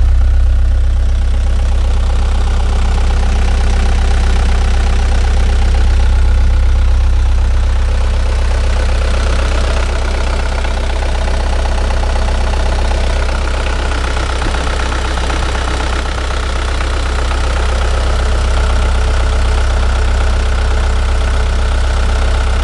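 Mitsubishi Canter's 4D34-T four-cylinder turbo diesel engine idling steadily, running normally.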